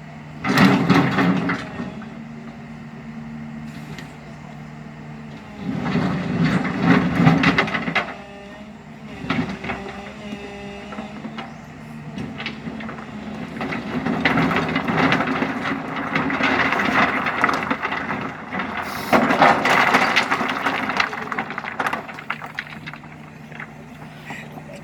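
Backhoe engine running with a steady hum, growing louder and noisier in several stretches of a few seconds each as the machine works under load.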